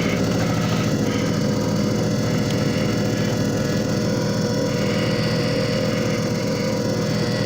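JFJ Easy Pro disc repair machine running, its motor giving a steady hum with a constant whine.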